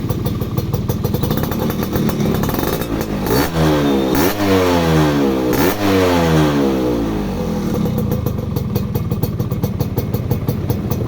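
Yamaha F1ZR's two-stroke single-cylinder engine running through a KDX aftermarket exhaust: it idles, is revved up and down several times about three to seven seconds in, then settles back to idle.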